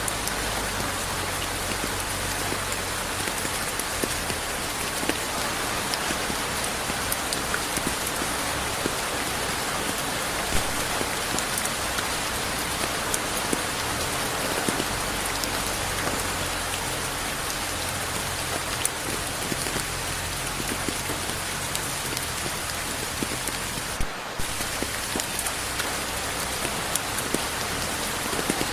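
Steady rain falling, with no thunder: a dense, even hiss scattered with the ticks of individual drops striking a surface. The sound briefly dips once, about four-fifths of the way through.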